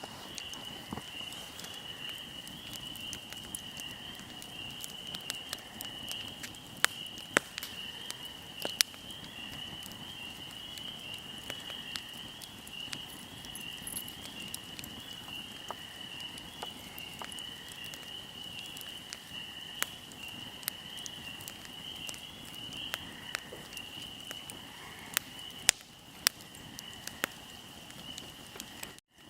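Fire burning with irregular crackles and a few louder pops, over a steady high chirring of insects.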